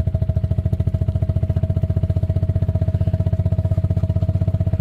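Small engine of a farm vehicle running at a steady speed while it is being driven. It makes an even, rapid low pulsing with a steady whine on top.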